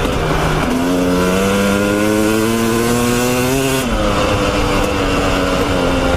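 Dirt bike engine under throttle, its pitch climbing steadily for about three seconds as it pulls through a gear, then falling sharply near four seconds in and running on lower, with a rushing noise over it.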